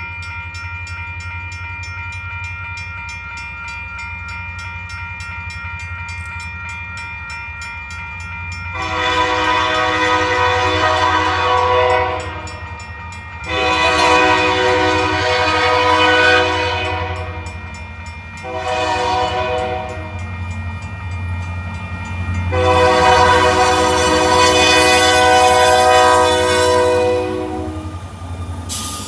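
Diesel locomotive's air horn sounding the grade-crossing signal of two long blasts, a short one and a long one, over the steady low rumble of the engine.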